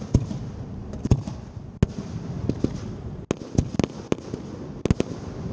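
Fireworks display: aerial shells going off in a quick, irregular run of sharp bangs, a dozen or so, some in close pairs, over a steady background hiss.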